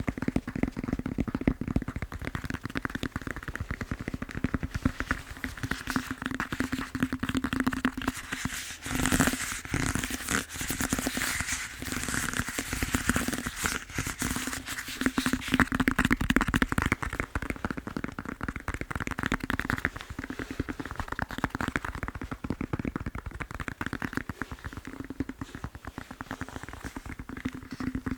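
Fast fingertip tapping on a foam massage roller: a continuous stream of quick, dense taps.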